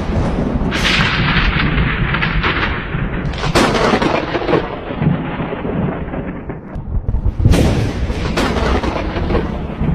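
Thunder close by: a continuous low rumble broken by sharp cracks about a second in, at about three and a half seconds, and twice in quick succession near the end.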